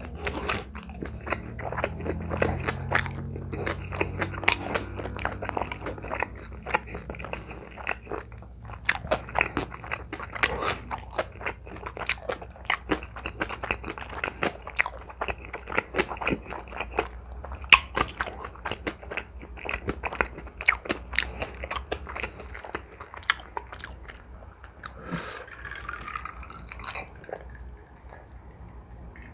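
Close-miked chewing of a mouthful of food, with many quick wet mouth clicks and smacks. In the last few seconds the chewing stops and he drinks from a glass, swallowing.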